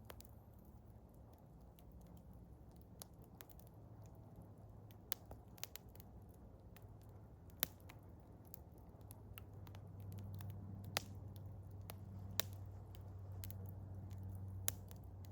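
Small wood fire of birch bark and eastern hemlock crackling: sharp, irregular pops, a few of them louder, over a low steady rumble that grows a little louder about ten seconds in.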